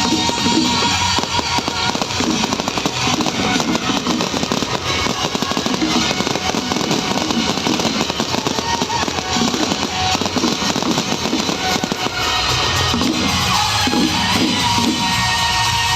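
Fireworks crackling in a dense, unbroken stream over loud music.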